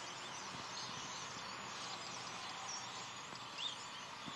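Faint, steady chatter of a large flock of birds, many calls blending into one continuous din, with a few separate chirps standing out.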